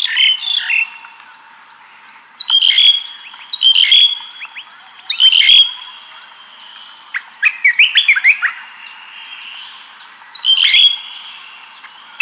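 Songbirds chirping in short bursts of quick, high notes, a burst every couple of seconds.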